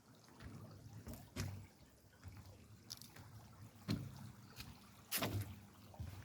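Irregular footsteps crunching and rustling through dry leaf litter on a forest path, about one step a second, with the loudest step just past five seconds in.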